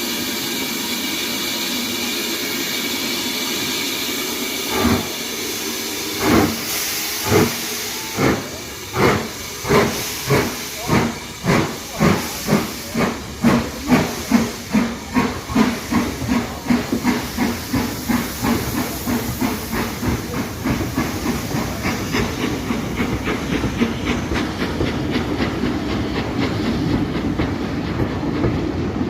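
BR Standard Class 4MT steam locomotive starting away: a steady hiss of steam for the first few seconds, then exhaust beats begin about five seconds in, slow and heavy at first and quickening steadily until they run together into rapid chuffing as the train gathers speed.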